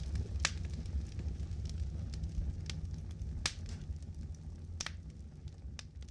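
Wood campfire burning: sharp crackles and pops at irregular intervals over a steady low rumble, the loudest pops about half a second in, at three and a half seconds and near five seconds. The sound begins to fade near the end.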